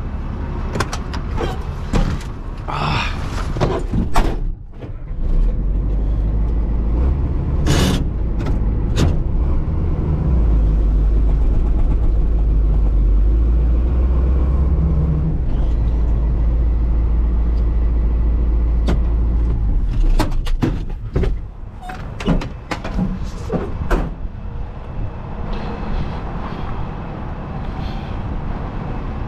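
Heavy diesel engine running with a strong low rumble, broken by sharp clunks and short bursts of hiss in the first few seconds and again about twenty seconds in.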